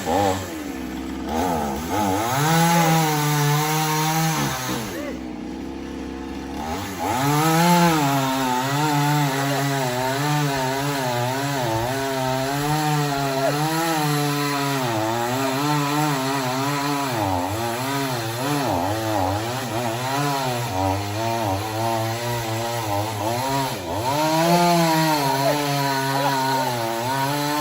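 Two-stroke chainsaw cutting through wood, its engine note sagging and recovering as the chain loads up in the cut. The throttle eases off for about two seconds around five seconds in, then the saw goes back into the cut.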